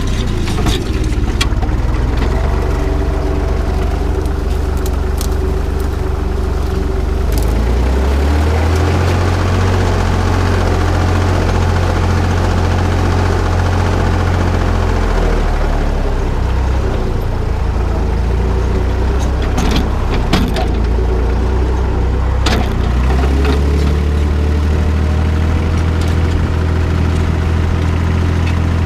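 Tractor engine running steadily while pulling a cultivator through a field, its low note shifting a couple of times, with a few short knocks and rattles.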